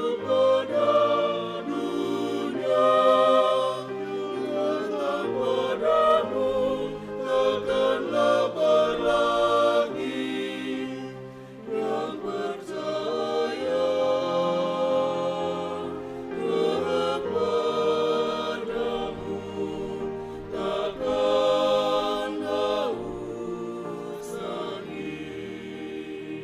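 Mixed choir singing a hymn in several-part harmony, the phrases swelling and easing off, over a sustained low bass line.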